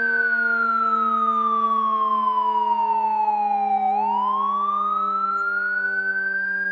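Emergency-vehicle siren in a slow wail: the tone falls steadily for about four seconds, then quickly turns and climbs back up. A steady low hum runs underneath.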